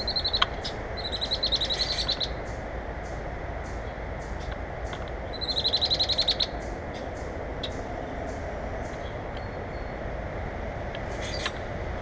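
A bird calling: a short high chatter at the start, then two rapid trills of quick, evenly repeated high notes, about a second in and again around five to six seconds in. A steady background hiss runs underneath.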